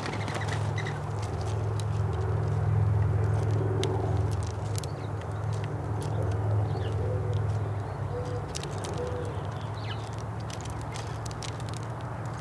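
Low steady engine hum at a fixed pitch, swelling louder for several seconds and then easing off. Short light clicks and a few small bird chirps sound over it.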